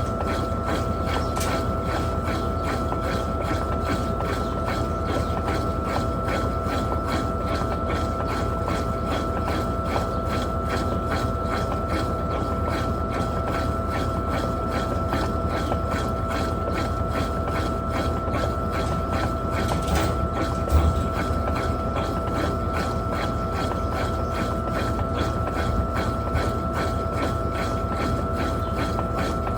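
Electrolux LTP15 top-load washing machine running in its final spin, a steady motor whine over a fast, even rhythmic churning and low rumble.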